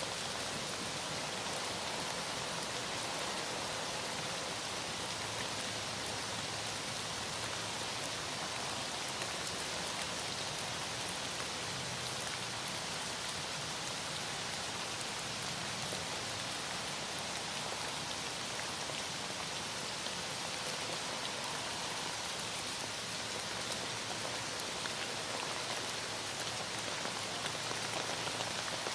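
Heavy rain falling steadily, a dense, even hiss with fine pattering drops.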